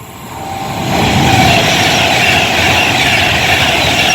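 Train passing through the station at speed without stopping, its rumble and rail noise swelling over the first second and then holding loud and steady.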